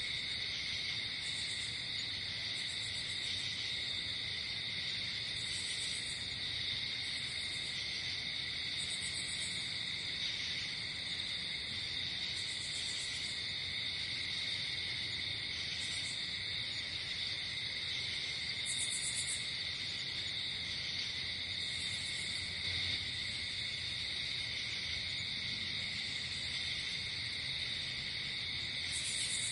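Night insect chorus: crickets trilling steadily without a break, with short, high, buzzy insect calls repeating every one to three seconds.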